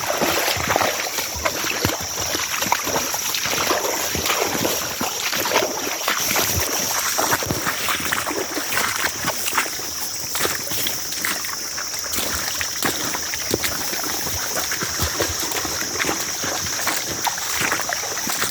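Flowing creek water running, broken by frequent irregular splashing and sloshing as a bloodhound and its handler wade through it, with a steady high hiss over it.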